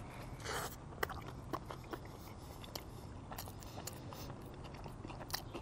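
A person biting into a Nashville hot chicken sandwich, a short crunchy burst about half a second in, then chewing with scattered sharp mouth clicks.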